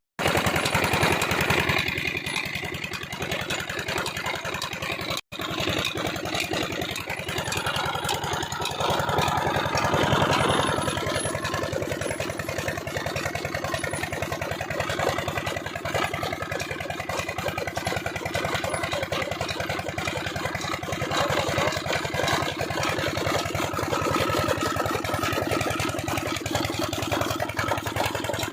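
Old single-cylinder Petter-type stationary diesel engine running steadily, driving a chaff cutter, with a fast even beat that swells louder for a few seconds near the middle.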